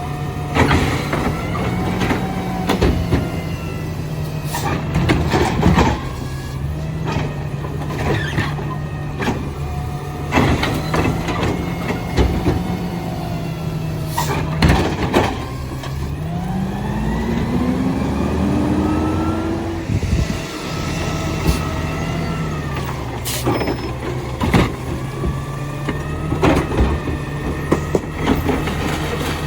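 Garbage truck engine idling, revving up for several seconds about halfway through before dropping back to idle, with repeated bangs and knocks of trash being handled and dumped.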